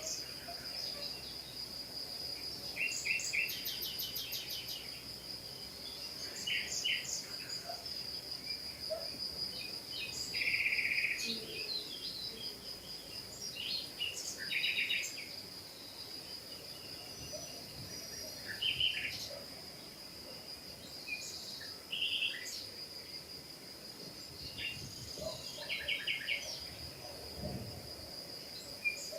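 Assorted birds chirping and calling in short bursts and trills throughout, over a steady, high-pitched continuous whine.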